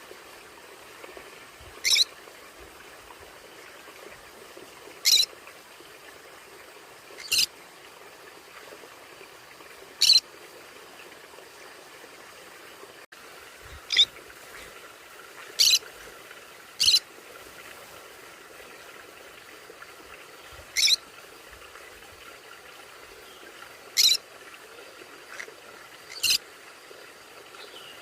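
A conure giving short, sharp, high-pitched squawks, one every few seconds, about ten in all, over a faint steady hiss.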